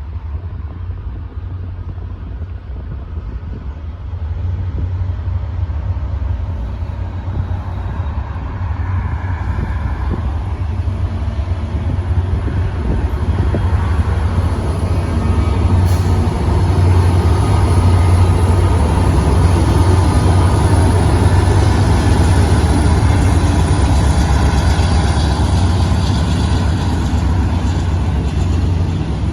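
CN mixed freight train rolling past: a steady low rumble with wheel and rail noise, growing louder over the first half and then holding.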